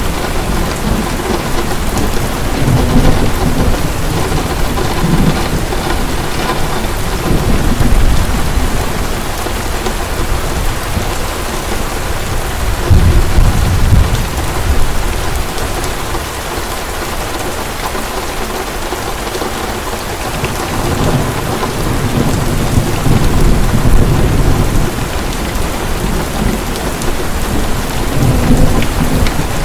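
Heavy rain falling steadily, with rolls of thunder rumbling low again and again, the strongest about thirteen seconds in and a quieter lull a few seconds after it.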